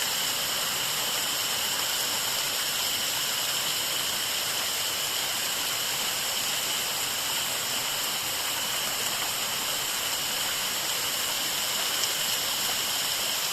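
Waterfall rushing steadily, an even unbroken roar of falling water, with a steady high-pitched drone laid over it.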